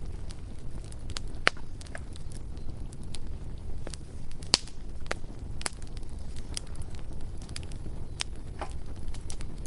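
Bonfire crackling, with irregular sharp pops over a steady low rumble; the loudest pops come about a second and a half in and about four and a half seconds in.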